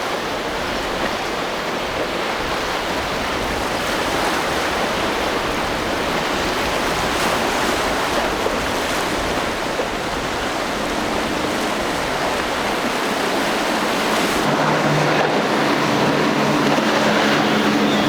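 Steady rush of surf and breaking waves. In the second half a boat's engine hum comes in and grows louder near the end.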